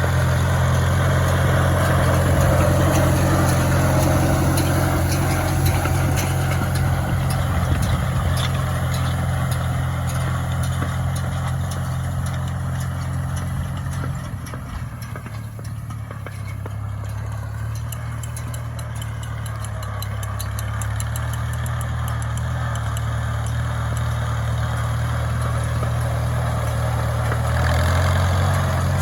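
Oliver Super 66 tractor's four-cylinder engine running steadily under load, growing quieter about halfway through and louder again near the end.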